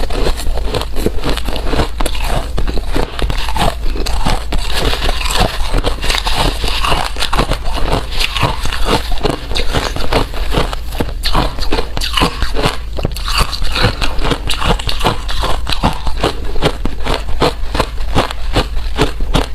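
Ice being bitten and chewed close up: rapid, continuous crunching and cracking, many crunches a second without a break.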